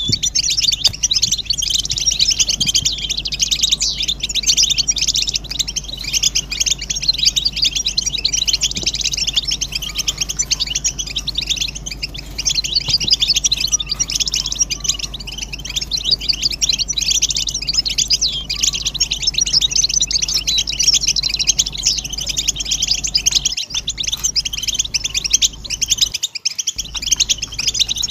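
A flock of European goldfinches twittering together, a dense, unbroken chatter of overlapping quick chirps and trills: the group courtship and readiness calls used to get silent males to sing.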